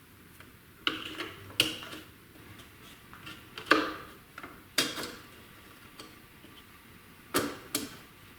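Sharp metallic clicks and clanks, about six in irregular clusters with a short ring after each, as the band blade of a small metal-cutting band saw is worked onto its wheels and guides.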